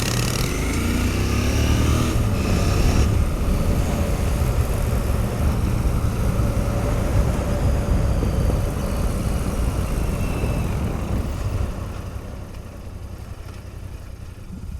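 Royal Enfield Continental GT650's 648 cc parallel-twin engine running on the move, half buried in heavy wind noise on the camera's microphone. The revs climb over the first couple of seconds, and the sound gets quieter about twelve seconds in.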